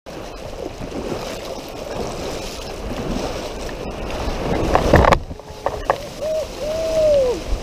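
Water rushing and sloshing around a kayak, a steady noise that cuts off abruptly about five seconds in. It is followed by a few gliding, whistle-like tones.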